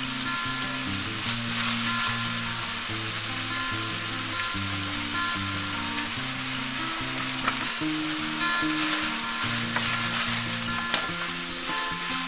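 Ground pork-and-beef mince sizzling in a nonstick frying pan, stirred with a wooden spatula that scrapes now and then; the dry crackling means the meat's juices have cooked off and it is browned. Soft background music plays underneath.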